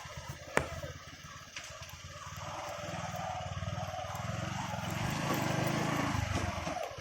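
A motor vehicle's engine running as it drives slowly over a rough, broken road, getting louder from about two seconds in. A single sharp knock about half a second in.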